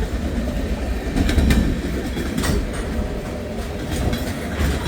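Freight train cars rolling past, with a steady rumble and a few sharp clacks of wheels over the rail joints. Gusting wind buffets the microphone.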